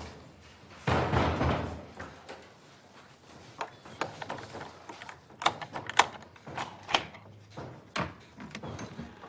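A door banging about a second in, then a run of sharp, irregular knocks and clicks.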